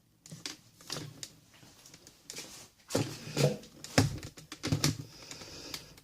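Handling noise: scattered light clicks and knocks, with a few heavier thumps about three to five seconds in.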